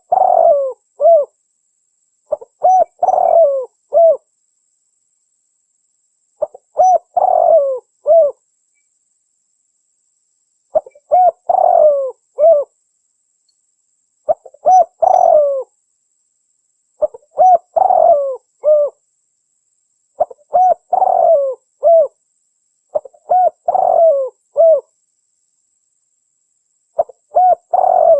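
Spotted dove (tekukur) cooing: a phrase of several coos ending in a short separate note, repeated every three to four seconds with silence between.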